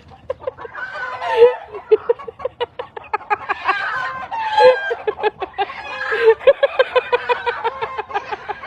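Chickens clucking in quick, even pulses, with higher, louder calls mixed in.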